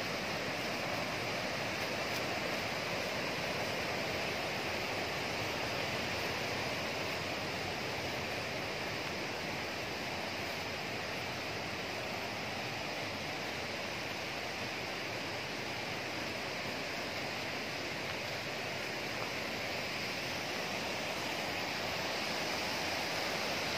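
Running water of a stream rushing steadily over rocks, an even noise without breaks.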